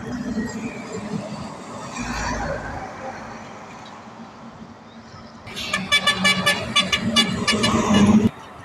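Road traffic noise with a vehicle rumbling past, then a truck horn sounding in a rapid pulsing series for about three seconds before cutting off suddenly.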